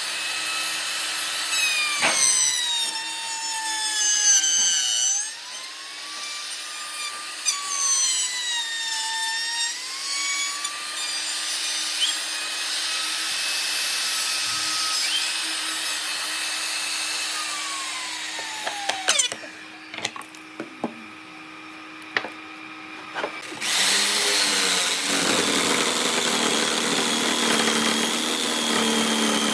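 Electric power tool cutting wood, its motor pitch sagging and recovering several times under load. About two-thirds of the way in it winds down, and after a short quieter stretch a power tool runs steadily again near the end.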